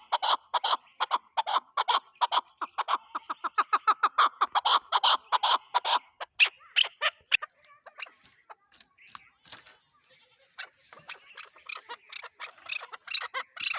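Chukar partridge calling: a fast run of short, harsh notes, about five a second, for the first six seconds, then scattered fainter notes.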